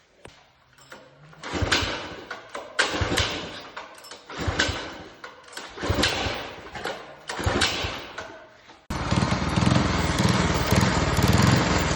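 Predator 212 single-cylinder engine with its governor removed being pull-started: five short bursts about a second and a half apart, each firing briefly and dying away. About nine seconds in it catches and runs steadily. This is the hard-starting fault the owner is asking about.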